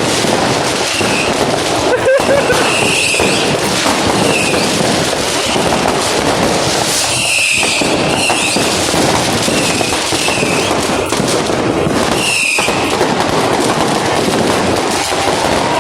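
Fireworks and firecrackers going off all around at once: a dense, continuous crackle of countless bangs, with short whistles gliding up and down every second or so.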